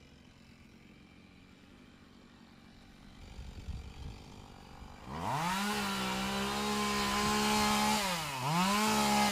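Two-stroke chainsaw engine revving up about halfway through and holding at a high steady pitch, then dropping off briefly and revving back up near the end.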